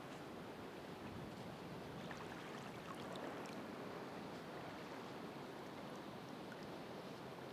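Ocean surf: a steady, even wash of waves with a few faint small crackles.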